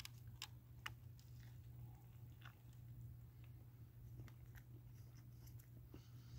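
Faint chewing of a mouthful of steak sub sandwich: soft, scattered wet mouth clicks and ticks over a steady low hum.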